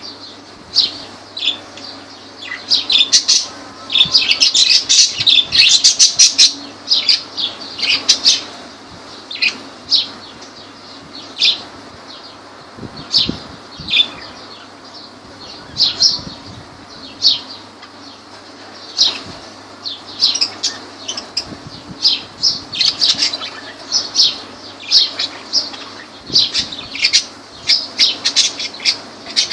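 A group of lovebirds chirping and squawking, many short sharp high-pitched calls overlapping, thickest a few seconds in and again near the end.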